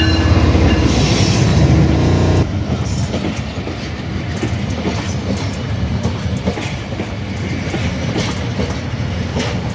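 Pakistan Railways diesel locomotive passing close by with a loud, steady engine rumble that drops away sharply about two and a half seconds in. Its passenger coaches then roll past with a quieter rolling noise and light clicking of wheels over the rail joints.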